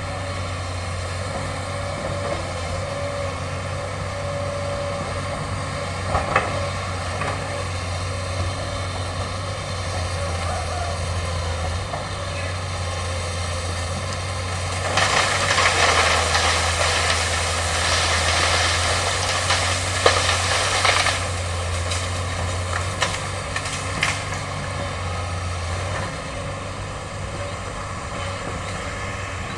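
Excavator's diesel engine running steadily. About halfway through comes a louder stretch of noise lasting about six seconds, with a few sharp knocks scattered through.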